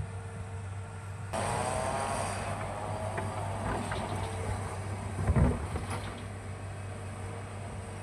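Hitachi excavator's diesel engine running, picking up with a wavering whine about a second in, with clanks and a heavy thud about five seconds in, then settling back to a steady hum.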